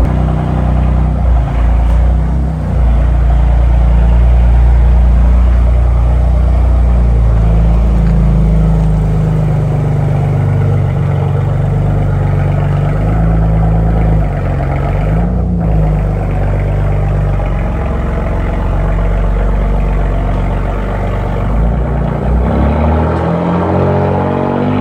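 BMW F80 M3's twin-turbo S55 inline-six running cold just after its first start following about four months of winter storage. It is a little louder for the first ten seconds, then the car rolls slowly away at low revs, the pitch rising near the end.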